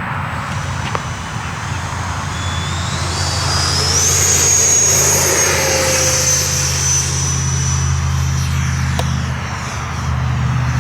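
90 mm electric ducted fan of a Freewing RC F-16 jet spooling up. Its high whine climbs about three seconds in, then holds near full power, as for a takeoff run.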